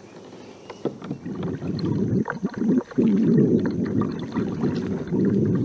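Water sloshing and gurgling against a kayak's hull as it is paddled while trolling, a low rumbling noise that starts faintly about a second and a half in and grows louder halfway through.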